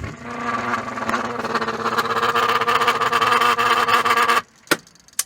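Whirlpool Estate top-load washer's drive motor running in the spin cycle with the lid switch bypassed, a steady pitched hum. It is working normally, which shows the motor is fine. The hum cuts off suddenly about four and a half seconds in, followed by a single click.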